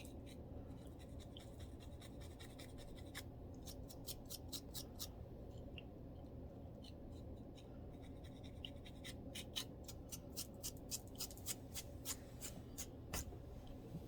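Scratching on a scalp flaked with dandruff: short, crisp strokes about four a second, in a run a few seconds in and a longer run in the second half, over a steady low hum.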